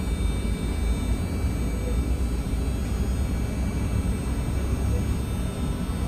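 Steady low rumble of a moving vehicle heard from inside, with no sudden events.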